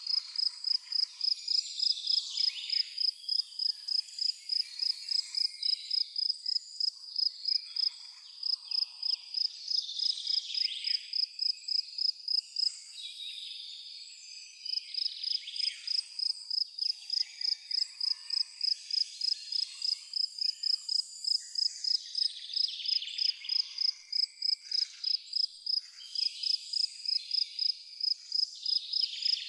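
A cricket chirping in an even rhythm, about three high chirps a second, with a pause of a couple of seconds about halfway through. Faint birds call in the background.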